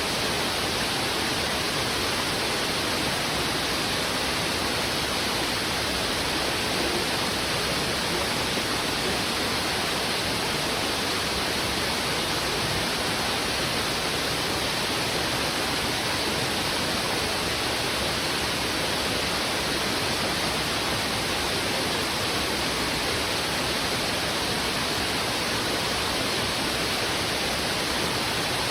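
A river in heavy flow rushing over rocks: a steady, dense hiss of water with no changes in level.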